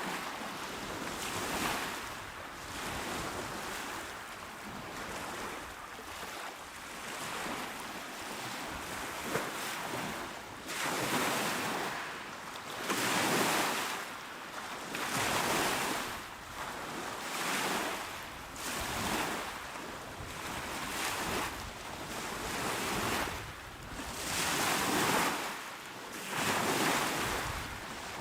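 Small, calm waves washing onto a shore, each swell of surf rising and falling in turn, about one every two seconds.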